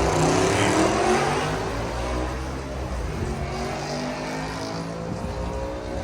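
Modified car engine with a loud aftermarket exhaust: the revs drop away over the first second or two, then it keeps running more steadily.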